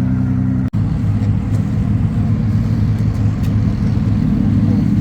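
Car engine running with a steady low rumble, broken by a sudden brief gap under a second in, after which it carries on rougher.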